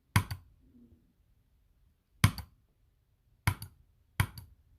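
Four short, sharp clicks or taps at uneven intervals in a quiet small room.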